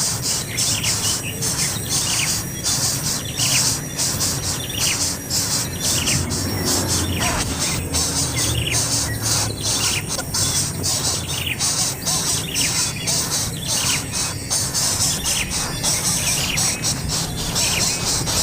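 Bird chirping: a long run of short falling chirps, about two a second, over a steady high buzzing hiss.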